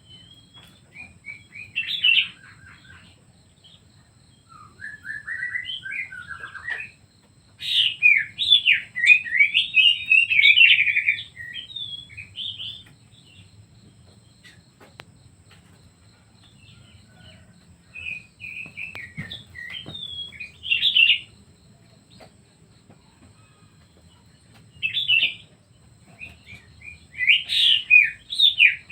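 Pet songbirds singing in bursts of rapid chirping, twittering phrases, with pauses of a few seconds between the phrases.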